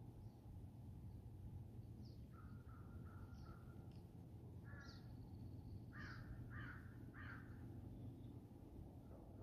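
Faint calls of a bird in the distance: a few short calls a couple of seconds in, then three short calls in quick succession about six seconds in, over a low steady background rumble.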